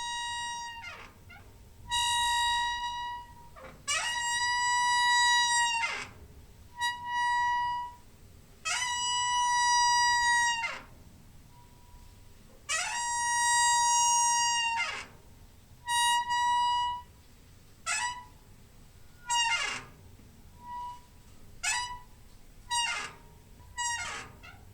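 Door hinge squeaking again and again: about a dozen high, steady-pitched creaks, some drawn out for about two seconds and others short, several sliding down in pitch as they end.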